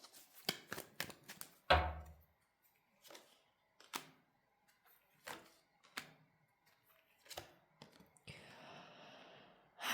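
Tarot cards being handled on a table: scattered light clicks and taps, a thud about two seconds in, and a soft shuffling rustle near the end.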